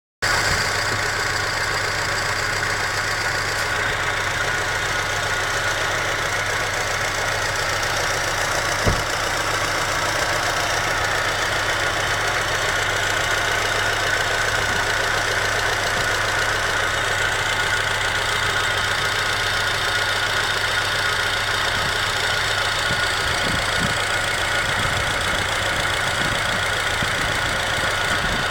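Car engine idling with its hydraulic lifters knocking, a tapping that has appeared after an engine oil-system flush. One sharper knock stands out about nine seconds in.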